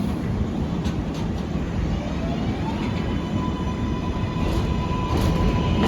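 An R188 subway train's electric propulsion starting to pull away: about two seconds in, a motor whine rises in pitch and then holds steady, over a low rumble that grows louder toward the end.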